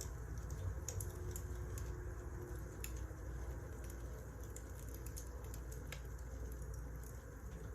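Wood fire burning, with irregular sharp crackles and pops of the burning logs over a steady low rumble of the flames.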